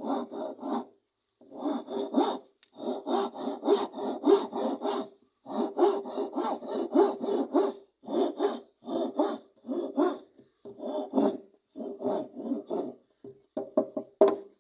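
Rapid back-and-forth strokes of a hand tool on wood, like hand sawing or rasping, about three to four strokes a second. The strokes come in short runs with brief pauses between them.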